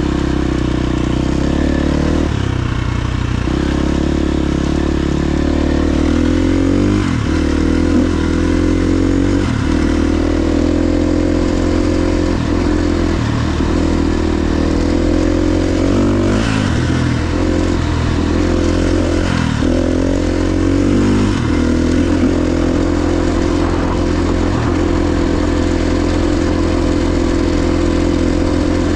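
KTM XC-F 350's single-cylinder four-stroke engine pulling steadily while being ridden, with revs dropping briefly and climbing back about a dozen times as the throttle is rolled off and on.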